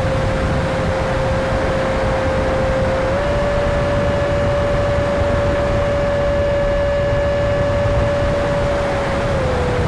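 Electric ducted-fan motor of an E-flite F-16 70mm EDF RC jet running in flight: a steady fan whine that steps up slightly in pitch about three seconds in and drops back near the end, over a constant low rumbling noise.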